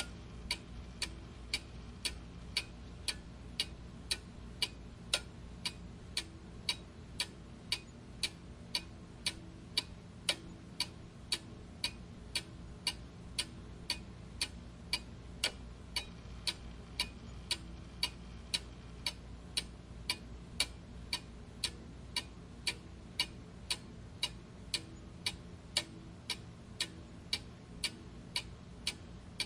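Clock ticking steadily and evenly, about two ticks a second, over a low background hum.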